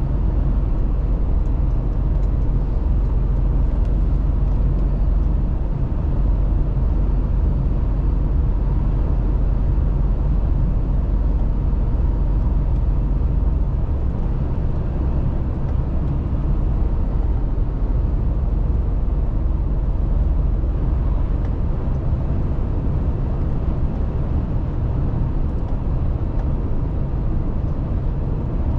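Mercedes-Benz Actros truck driving at a steady speed: a steady low diesel engine drone mixed with road and tyre noise.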